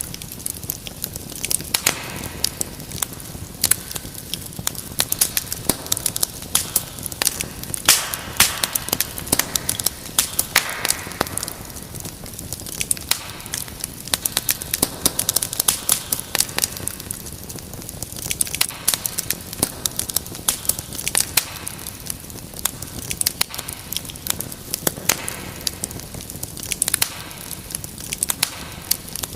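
Wood fire crackling steadily, with many irregular sharp pops and snaps over a low hiss.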